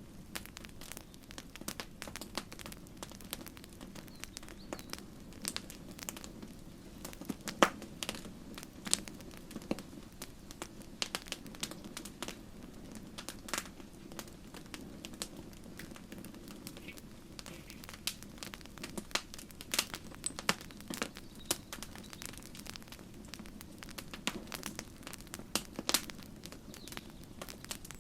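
Wood campfire crackling: irregular sharp pops and snaps, several a second and uneven in strength, over the steady low rush of the burning fire.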